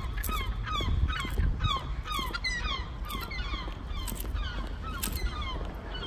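A bird giving a rapid series of short, downward-sliding alarm calls, about three a second, over a low rumble. The calls are the agitated calling of a parent bird thought to be guarding nearby young.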